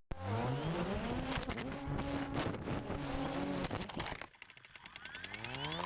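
Motor vehicle engine revving, its pitch rising and then holding, with a clattering noise over it; after a cut about four seconds in, an engine accelerates with a steadily rising pitch.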